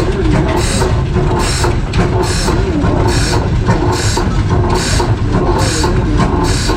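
An antique engine running, with a sharp puff repeating evenly a little more than once a second over a steady low rumble.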